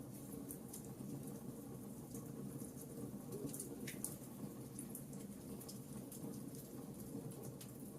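Fire in a fireplace crackling: a faint steady low rumble of flame with scattered sharp snaps and pops, one stronger pop about four seconds in.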